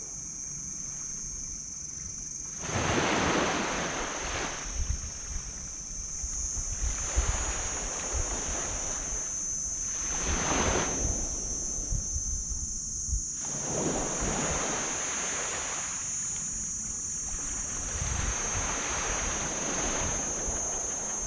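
Small waves washing onto a black sand beach, each swelling and fading about every three to four seconds. A steady high-pitched tone runs underneath, and wind rumbles on the microphone.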